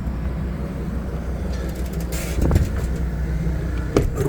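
Engine idling steadily with a low hum, broken by a brief hiss about two seconds in and a couple of sharp knocks near the end.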